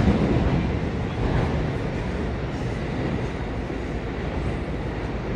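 Electric commuter train standing at a station platform with its doors closed: a steady low hum and rumble from the train and platform, with no distinct events.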